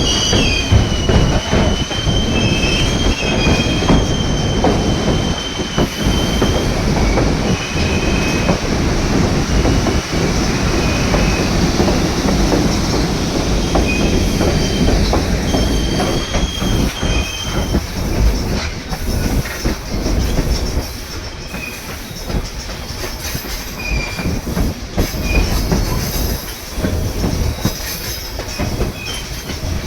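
White Pass & Yukon Route narrow-gauge train running, its wheels rumbling steadily on the rails. A high-pitched wheel squeal is strong for the first several seconds, then comes and goes in short stretches.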